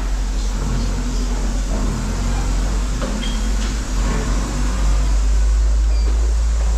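Steady low rumble of a running engine or heavy machine, with a few faint clicks.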